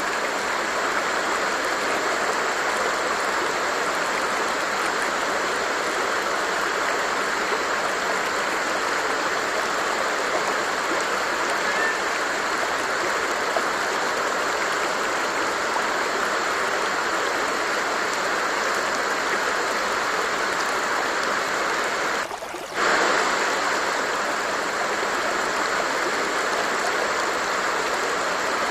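Water of a stream flowing and splashing steadily, with one brief drop in level about three quarters of the way through.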